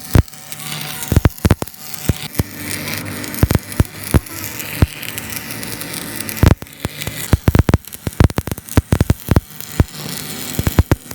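Irregular sharp metallic knocks and clanks, some in quick runs, over a steady low hum: hand work on bulldozer clutch parts.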